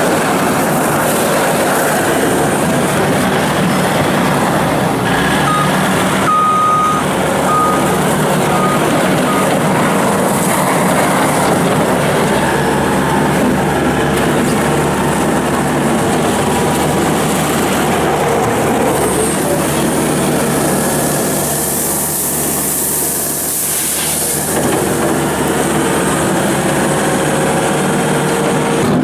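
Case SR220 skid steer loader's diesel engine running steadily under the operator's control. A run of about five short, high beeps comes about six seconds in, and a hiss rises briefly past the twenty-second mark.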